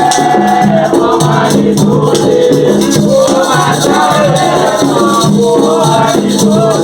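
Devotional song for the orixás: voices singing with a wavering melody over a shaken rattle and a steady low beat repeating about twice a second.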